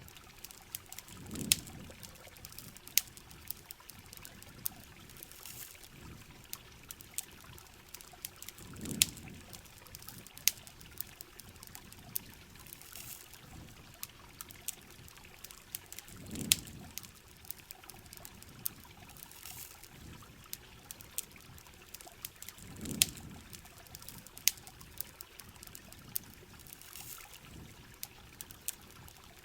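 Layered rain-and-campfire ambience: steady pouring, trickling water with many sharp campfire crackles and pops on top. A low, falling swell comes back about every seven seconds.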